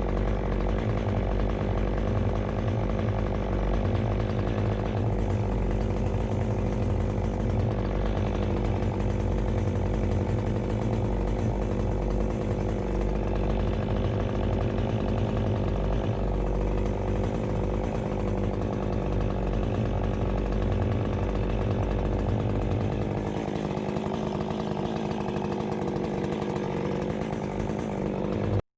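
Chainsaw engine running steadily, its low note shifting slightly about 23 seconds in.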